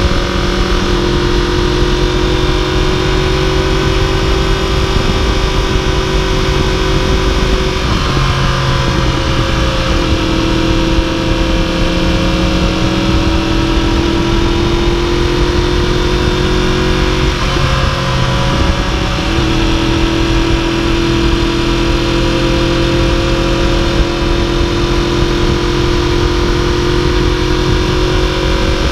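Yamaha YZF-R1 crossplane inline-four running at cruising speed under the rider, with wind rush over the microphone. The engine note steps down about eight seconds in, dips and settles again around eighteen seconds.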